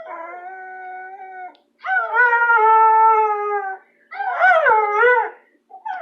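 Bulldog howling: three long howls, the first quieter with a falling start, the second loud and held on a steady pitch, the third loud and wavering up and down.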